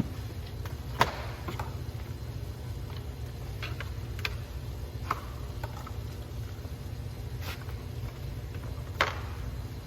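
A few scattered sharp clicks and knocks over a steady low hum; the loudest come about a second in and near the end.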